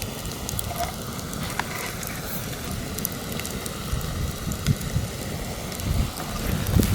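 Campfire crackling with many small sharp pops over a steady hiss, while wind buffets the microphone with a low, fluttering rumble.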